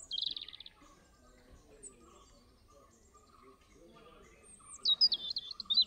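Forest songbirds calling: a short, fast, high trill just after the start, then near the end a run of loud, high whistled notes that jump up and down in pitch.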